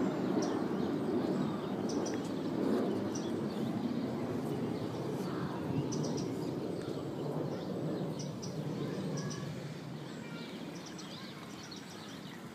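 Low rumble of aircraft passing overhead, slowly fading away, with small birds chirping and calling throughout.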